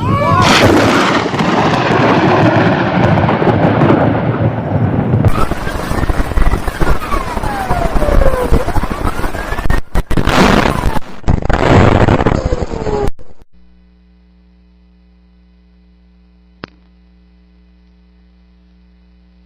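Thunder from close lightning strikes: loud cracks and rumbling in several clips cut one after another for about the first thirteen seconds. Then only a faint low steady hum, with a single click near the end.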